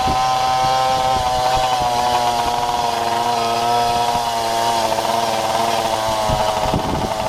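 Babetta moped's 50 cc two-stroke single-cylinder engine running at steady high revs, its pitch dipping briefly about five seconds in and climbing again near the end.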